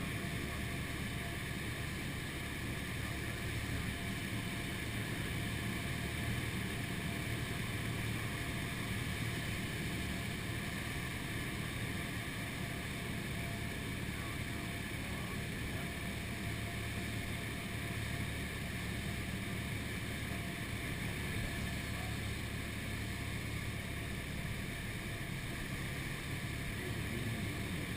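Inside a Cessna 172's cabin in flight: a steady drone of the engine throttled back for a simulated engine failure, mixed with rushing airflow.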